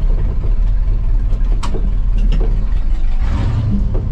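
1985 Ford F250 pickup's engine running with a steady low rumble as the truck drives slowly. A couple of sharp knocks and rattles come from the bouncing truck partway through.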